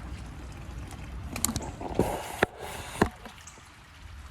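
Spring water running from a pipe while a water bottle is filled and handled. There is a low steady rush, a brief hissing splash in the middle, and a few sharp plastic clicks and knocks.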